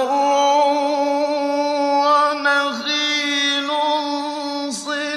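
A male Quran reciter's voice chanting a long, drawn-out melodic phrase in mujawwad style. The note is held on a nearly steady pitch, with two short dips and breaks, about three seconds in and near the end.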